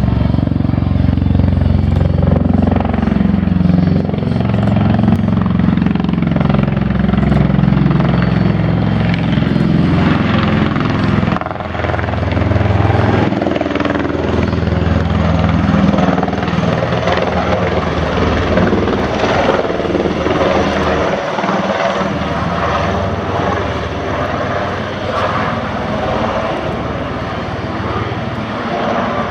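Bell Boeing MV-22 Osprey tiltrotor in flight: the loud, steady thrum of its two large proprotors and turboshaft engines, the pitch drifting up and down as it manoeuvres, with a brief dip in level about eleven seconds in.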